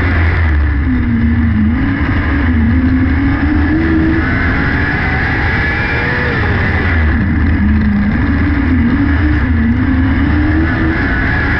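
600cc micro sprint car's motorcycle engine running hard while racing, its pitch dipping and then climbing back twice, about six seconds apart, as it goes through the turns and down the straights.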